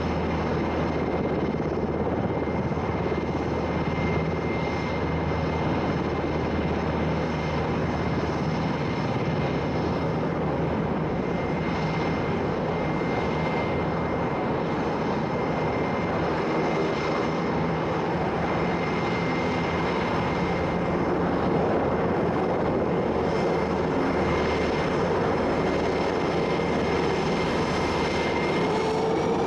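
Military helicopter running steadily, a constant engine noise with a thin high whine held on one pitch.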